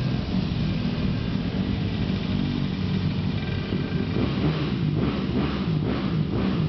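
Dirt bike engine running steadily, with its pitch wavering slightly as the throttle changes.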